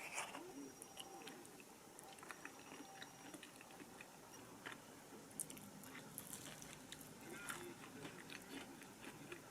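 Faint sounds of a person eating: chewing, with scattered light clicks.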